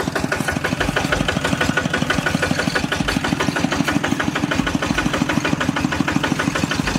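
Kubota RT hand tractor's single-cylinder diesel engine running steadily, an even, rapid chugging of about nine or ten beats a second.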